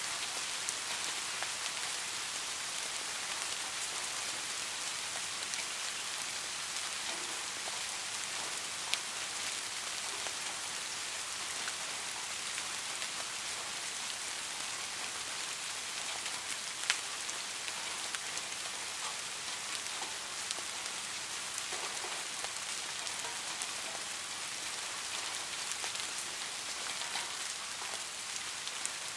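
Steady rainfall: an even hiss with scattered sharper ticks of single drops. Two louder drop ticks stand out, about nine and seventeen seconds in.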